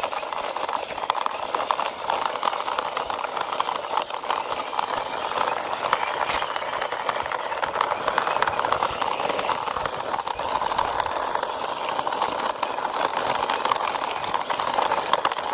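Plastic wheels of a small toy bus rolling and rattling steadily as it is pushed along the ground by hand.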